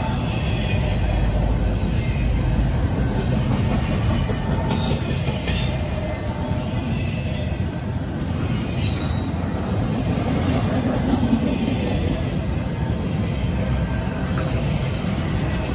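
CSX double-stack intermodal well cars rolling past on the rails: a steady low rumble of wheels on track, with brief high-pitched wheel squeals now and then.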